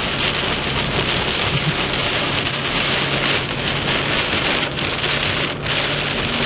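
Steady rain falling on a moving car's roof and windscreen, heard from inside the car, over a faint low hum of the car.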